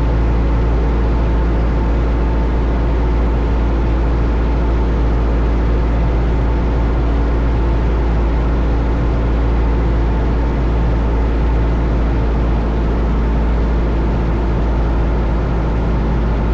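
Steady cabin drone of a Cessna 172 Skyhawk's four-cylinder Lycoming engine and propeller in flight: a strong low rumble with steady engine tones and no change in pitch.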